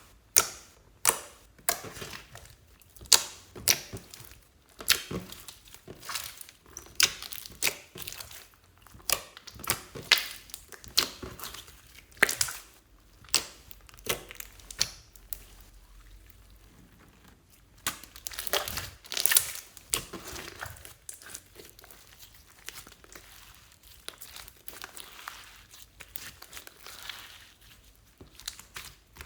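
Slime being kneaded and pressed by hand, giving irregular sticky pops and crackles. There is a short quieter spell about halfway through, followed by a denser run of crackling.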